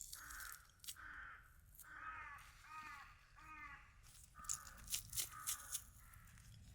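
A bird giving a series of short harsh caws, about eight calls in two runs with a short pause about four seconds in, over a few sharp clicks.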